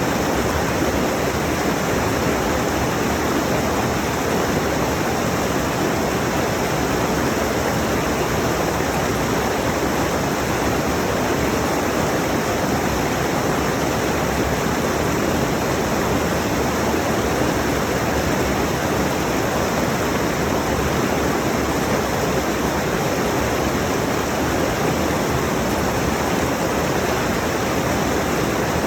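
Rushing mountain stream: water pouring over rocks in a steady, even rush.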